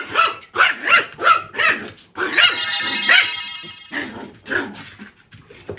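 Toy poodle puppy barking in a quick run of short, high yips, then letting out one longer, drawn-out cry a couple of seconds in that fades away.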